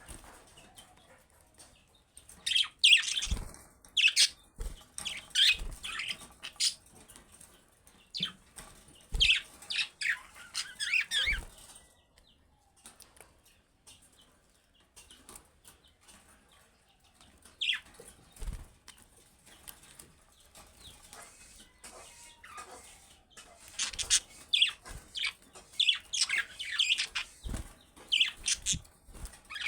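Budgerigars chirping and chattering in bursts of quick high calls, mixed with short low thumps. There is a quieter stretch in the middle before the chirping picks up again.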